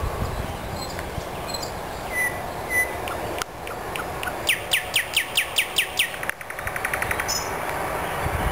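A songbird singing: two short notes, then a run of about nine loud whistles, each sweeping downward, followed by a faster trill, over a steady background hiss.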